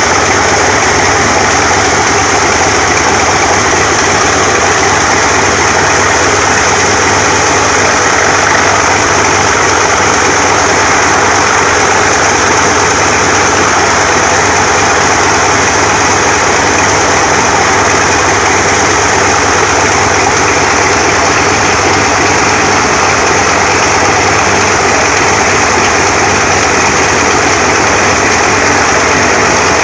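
Antonov An-2's ASh-62IR nine-cylinder radial engine running loud and steady at a constant speed during a ground run-up after long storage.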